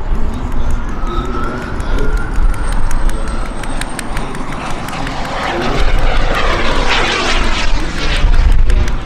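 Turbine-powered RC jet (Carf Models Mephisto V2) flying overhead. A high turbine whine falls and then rises again in pitch, and the jet roar swells about seven seconds in as it passes close. Heavy wind rumble sits on the microphone throughout.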